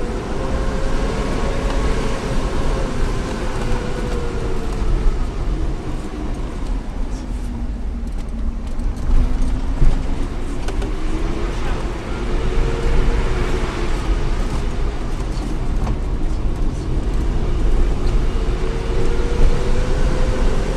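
Shuttle vehicle's engine running under load over a steady low rumble, its pitch rising and falling slowly several times as the revs change on a steep mountain road.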